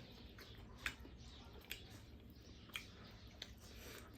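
Someone chewing food close to the microphone, with a few sharp wet smacks about once a second over a faint low hum.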